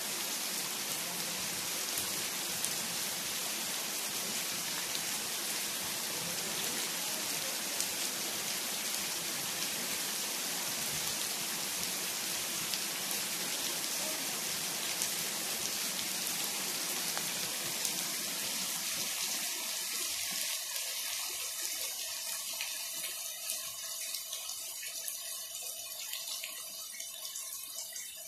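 Steady rain falling on a lawn and a wet concrete path; about twenty seconds in it eases, growing lighter and sparser.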